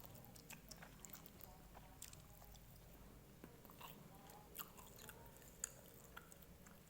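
Faint chewing of noodles: scattered small wet clicks and smacks of the mouth, with a sharper click twice in the second half.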